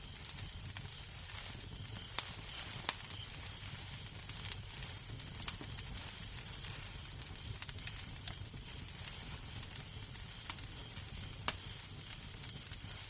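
Wood fire crackling in a fireplace: a steady hiss with a low rumble beneath, broken by scattered sharp pops, about a handful of them over the stretch.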